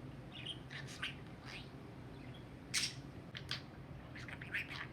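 Pet budgerigar chattering: short high chirps and warbles, with a louder call about three seconds in and a quick run of chirps near the end.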